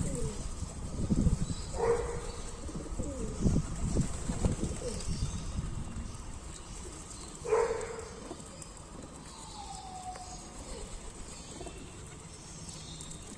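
Pigeons cooing, with two louder coos about two seconds and seven and a half seconds in. Low thumps and rustling run through the first few seconds.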